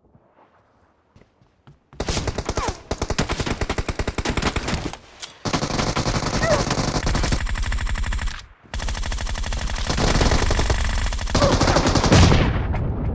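Shooter video game automatic gunfire. After about two seconds of near quiet come long bursts of rapid machine-gun fire, broken by two short pauses, that tail off near the end.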